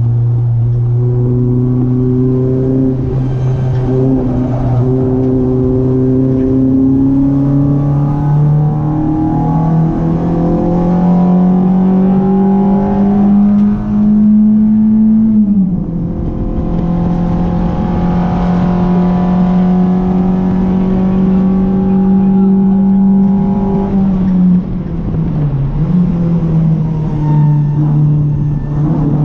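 Renault Clio RS 182's 2.0-litre four-cylinder engine pulling hard on track, its pitch climbing slowly for about fifteen seconds, then falling sharply as the driver lifts off. It then runs at a steady pitch with a brief dip near the end.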